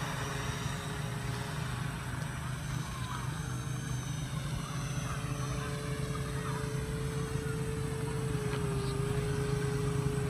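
RC model Cessna 182's motor running steadily in flight, a steady whine with a low hum under it, its pitch dipping slightly about eight seconds in.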